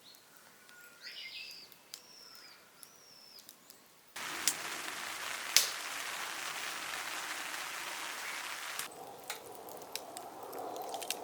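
A bird calls three times in short, repeated, arching whistles. About four seconds in, a steady loud hiss with scattered sharp clicks starts abruptly, and it thins near the end.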